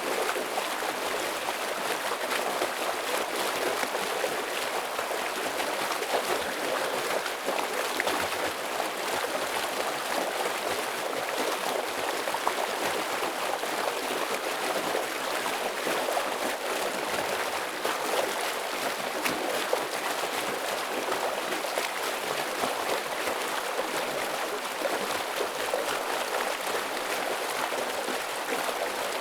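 Heavy stream flowing fast: a steady, dense rush of water with fine splashing and gurgling.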